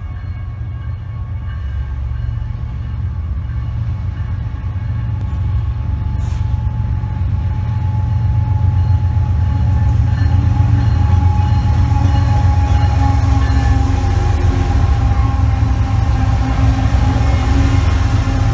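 BNSF diesel locomotives heading an intermodal freight train, approaching and drawing alongside: a deep engine rumble that grows steadily louder, with a thin steady whine above it.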